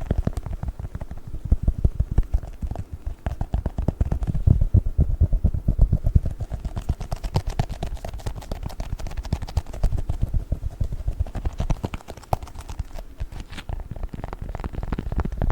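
Close-miked ASMR handling of a chocolate book: a fast, dense, unbroken stream of crackles, taps and squishes, heaviest in the deep range.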